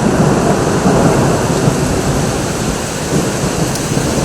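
Heavy rain pouring down, with a long rumble of thunder that slowly fades.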